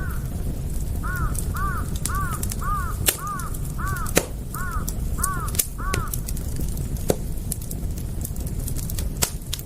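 Campfire crackling: sharp pops every second or so over a steady low rumble. Over the fire a bird gives a quick, even series of about nine calls, roughly two a second, each rising and falling in pitch; the series stops about six seconds in.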